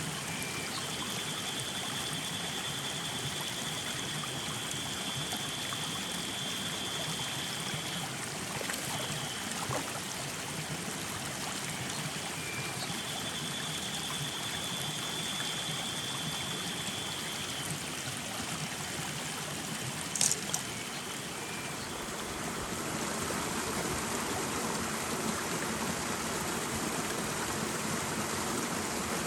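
Small mountain stream running steadily over rocks, a little fuller from about two-thirds of the way through. A thin, steady high-pitched tone sounds over it twice for several seconds, and there is a single sharp tick near the end.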